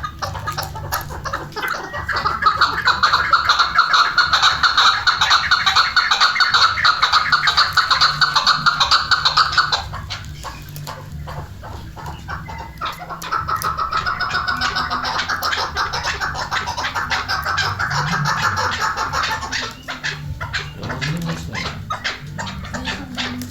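Chukar partridge calling in two long runs of rapid repeated notes: the first starts about two seconds in and lasts about eight seconds, and the second runs from about thirteen to nineteen seconds.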